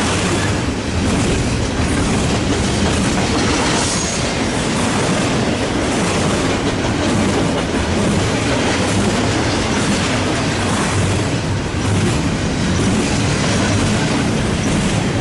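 Long BNSF double-stack intermodal container train's cars rolling steadily past, a loud continuous rumble of steel wheels on the rails.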